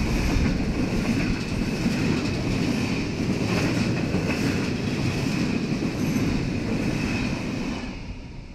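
Grain hopper wagons of a freight train passing at speed: a steady heavy rumble and clatter of steel wheels on the rails, with a thin high whine over it. The noise falls away near the end as the last wagon goes by.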